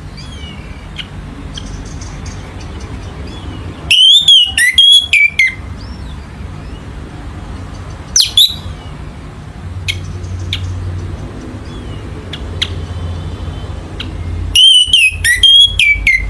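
Orange-headed thrush singing: two loud phrases, each a quick run of several clear whistled notes sliding downward, with a short single call between them and faint chirps in the gaps. A steady low hum runs underneath.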